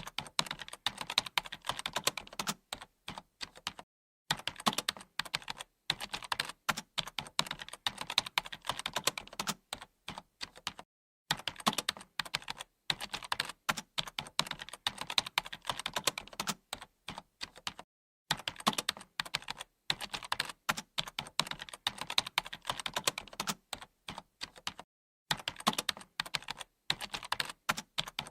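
Computer keyboard being typed on quickly, dense runs of key clicks broken by brief pauses every several seconds.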